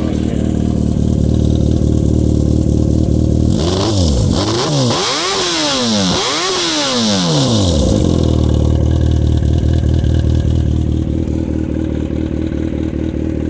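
2012 Yamaha FZ6R's 600 cc inline-four engine idling, then revved several times in quick succession about four seconds in, each rev rising and falling, before it settles back to a steady idle.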